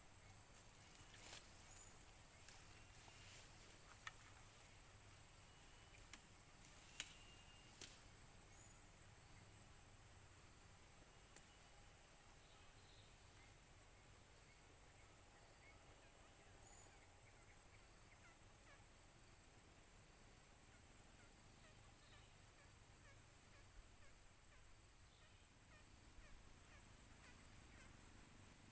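Wild forest quail calling faintly in short calls, mostly in the first eight seconds, over a steady high-pitched drone of crickets and other insects.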